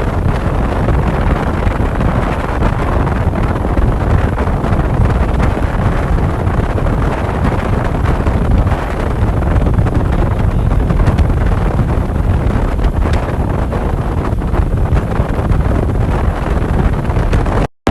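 Wind buffeting the microphone over a steady low vehicle rumble, as while riding on a highway. The sound cuts out for a moment near the end.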